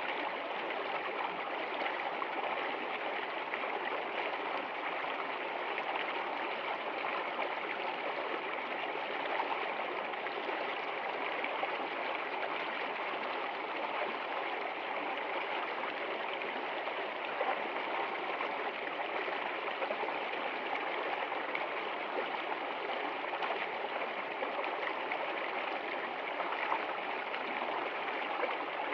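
A stream flowing, a steady rushing and trickling of water over its bed.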